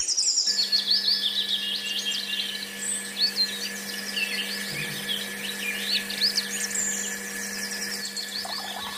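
Birds chirping and singing over the steady hum of a tiny battery-powered DC-motor water pump, which starts about half a second in and runs evenly.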